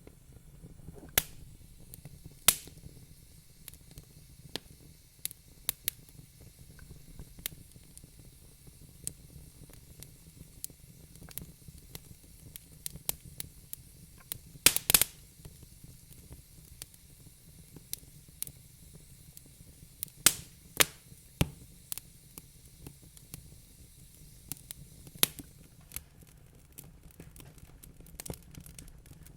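Wood fire crackling in a fireplace: irregular sharp pops and snaps, a quick cluster of loud ones about halfway through, over a soft steady low hiss.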